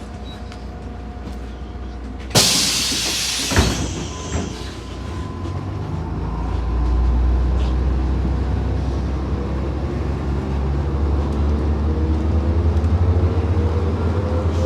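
A loud hiss of compressed air as the MAZ 105 bus's pneumatic doors close, with a knock as they shut. Then the diesel engine pulls away, its note and a whine rising as the bus accelerates.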